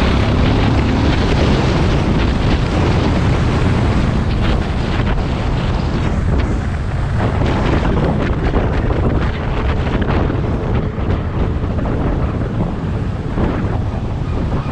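Heavy wind noise buffeting the microphone of a moving motorcycle, with its engine running underneath.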